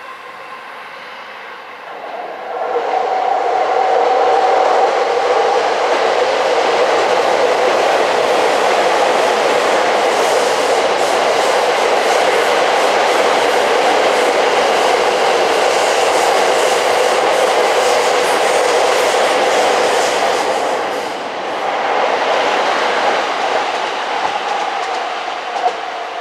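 An electric multiple-unit train passes close by: running noise swells in about two seconds in, with a steady hum and rapid clicking of wheels over the rails through the middle. It eases briefly about 21 seconds in, then picks up again before fading near the end.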